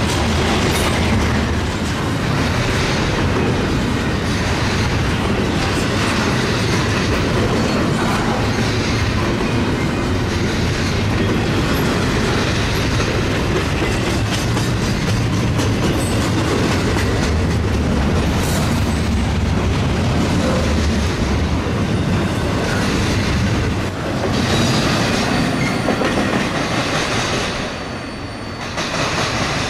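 Train cars rolling past, steel wheels clattering over the rail joints with a steady low rumble. A thin wheel squeal comes in during the last few seconds.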